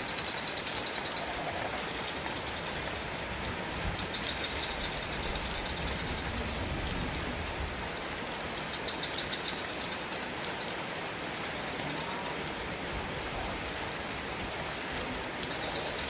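Steady rain falling. A low rumble swells for a few seconds in the middle, and a high, pulsing trill comes and goes a few times.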